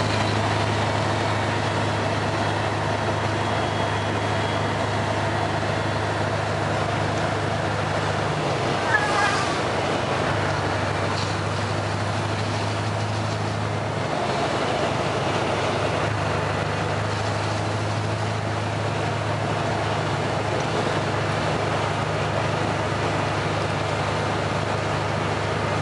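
Scania 143 450's V8 diesel engine running steadily as the truck drives, a constant low drone that dips twice, about 8 and 14 seconds in. A brief high chirp is heard about nine seconds in.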